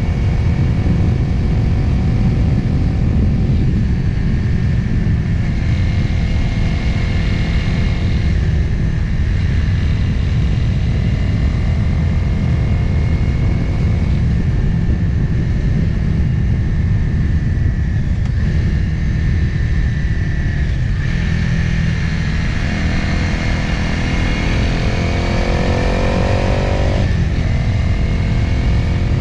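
Motorcycle engine heard from an on-board camera while riding, under heavy wind rush on the microphone. Near the end the engine pitch climbs steadily, drops sharply, then climbs again.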